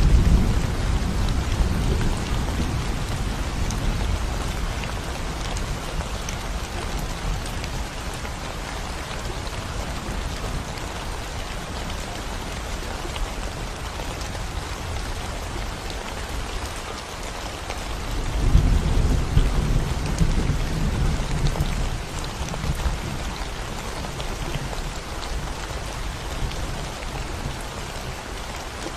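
Steady rain falling on a concrete road, an even hiss of drops hitting the surface. Low thunder rumbles under it: one fading away over the first few seconds, and another rising about two-thirds of the way through and dying down over a few seconds.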